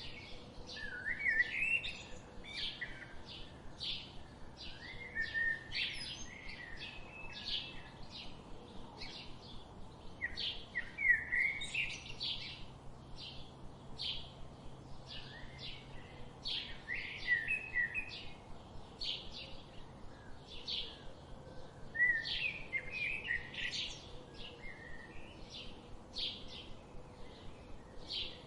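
Small songbirds chirping continuously: short high chirps repeating about twice a second, with a brief twittering phrase every five seconds or so.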